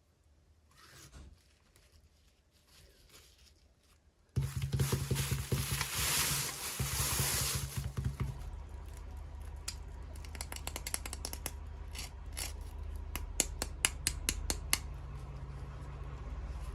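Toy packaging being opened by hand: faint scratching, then from about four seconds in a loud rustling and tearing of packaging over a low steady hum, followed by a run of small sharp clicks and taps.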